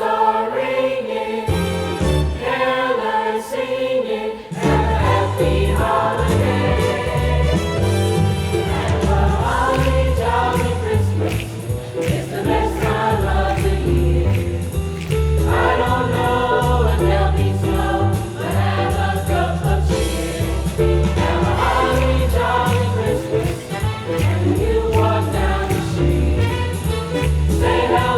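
A student choir singing a holiday song over instrumental backing. The backing fills out with a heavy bass about four seconds in.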